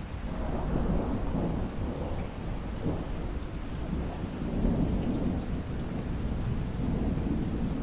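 Steady rain with a low roll of thunder that swells in at the start and keeps rumbling.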